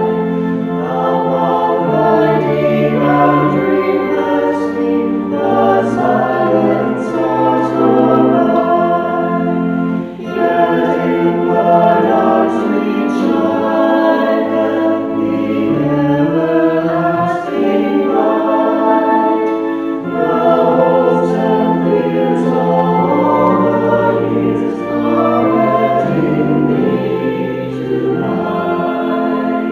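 A church choir singing a hymn, several voices together in sustained phrases, with a short breath break about ten seconds in.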